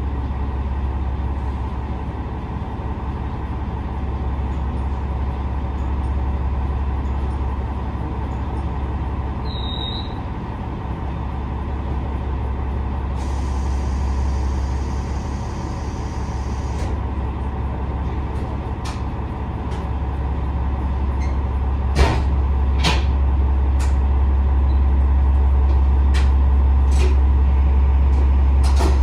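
Cabin sound of a KiHa 47 diesel railcar pulling away: a steady low engine drone that grows louder in the last third, with a brief high hiss partway through and a few sharp clicks near the end.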